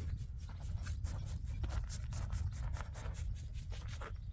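Rapid, irregular scraping strokes over a steady low rumble.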